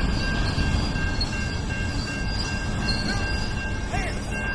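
Freight train running on the rails: a steady, heavy rumble with thin, steady high-pitched tones over it.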